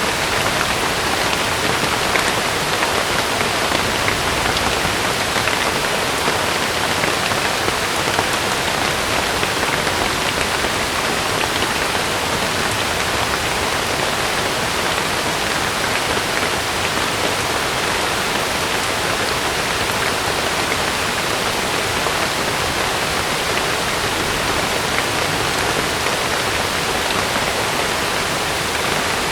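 Heavy rain falling steadily on a camping tent, a dense even patter of drops.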